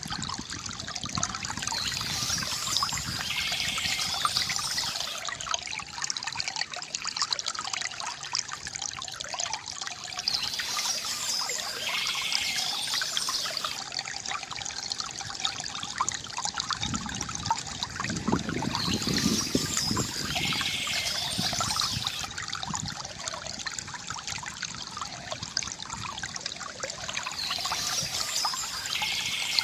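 Water trickling and gurgling steadily from a bamboo fountain, with a brighter, hissier swell returning about every eight to nine seconds.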